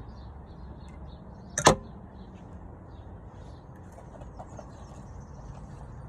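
Faint scattered bird chirps over a low steady hum, with one loud sharp knock about one and a half seconds in.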